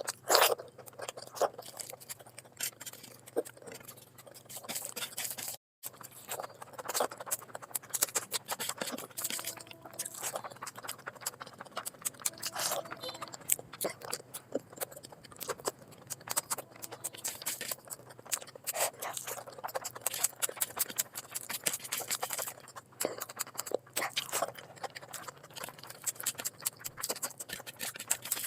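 Close-miked eating sounds of a person chewing a mouthful of curry and rice, with many irregular mouth clicks and smacks.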